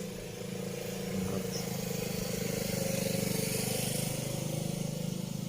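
A motor vehicle driving past, its engine running steadily and its sound growing louder to a peak about three seconds in, then fading.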